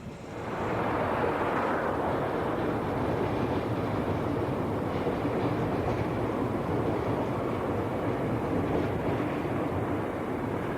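A Meitetsu Inuyama Line electric train running steadily, its wheel-on-rail noise fading in at the start and then holding even.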